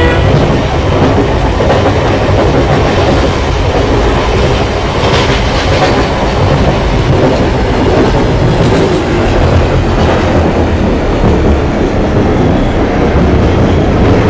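Train carriages hauled by a diesel locomotive rolling past: a loud, steady rumble and rattle of steel wheels on the rails.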